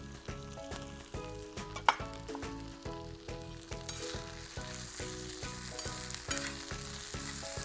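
Sliced onions, tomatoes, chillies and curry leaves sizzling as they fry in oil in a black iron kadai, stirred with a metal spatula; the sizzle grows fuller about four seconds in. A single sharp clink comes about two seconds in, over soft background music with a steady beat.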